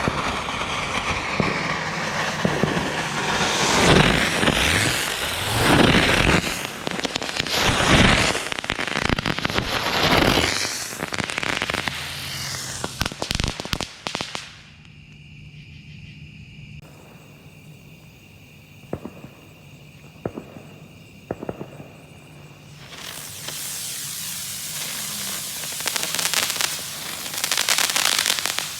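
Barrage of aerial spinner fireworks going off: dense crackling with whines that rise and fall. About halfway through it drops to a quieter stretch with a few sharp pops, then loud crackling starts again near the end.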